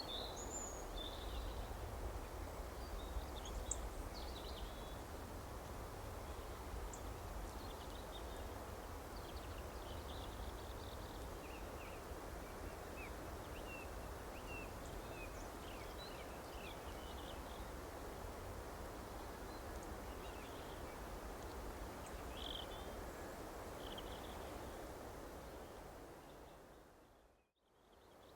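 Small birds chirping faintly and sporadically over a steady background hiss and low rumble. Near the end everything fades briefly to silence and fades back in.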